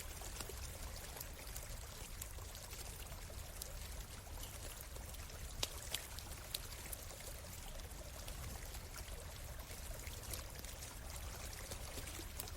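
A small stream running steadily, with a campfire crackling over it in scattered sharp pops, a few louder ones a little before halfway.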